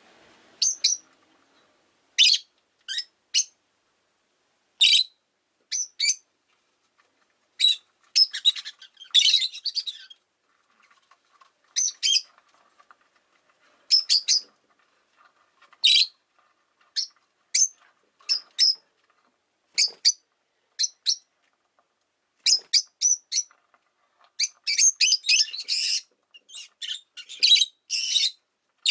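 Rosy-faced lovebird (peach-faced lovebird) chirping: short, sharp, high calls, singly and in quick clusters, coming thicker and faster near the end.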